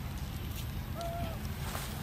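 A bird gives a single short whistled call, slightly arched in pitch, about a second in, over a steady low rumble.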